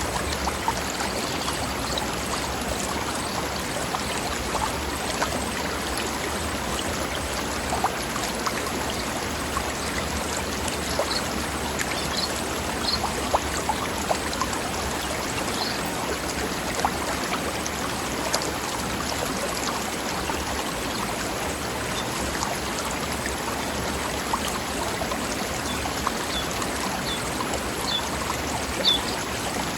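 Mountain stream flowing over rocks: a steady rush of running water with small splashes, and a few faint high chirps in the middle and near the end.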